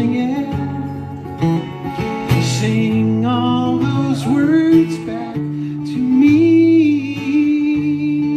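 Acoustic guitar playing a folk song's closing instrumental passage, with a melody line sliding in pitch above the chords.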